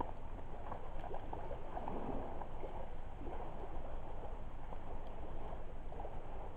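Driftwood campfire burning, with many small irregular crackles over a steady low rush, and water lapping at the lakeshore.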